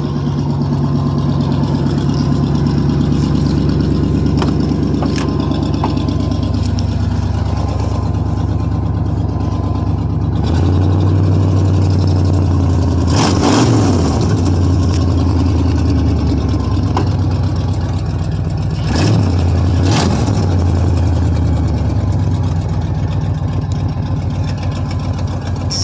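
Old GMC pickup's engine idling steadily after a cold start from two weeks sitting, its idle note changing about ten seconds in, then blipped twice in short revs; it cuts off at the very end.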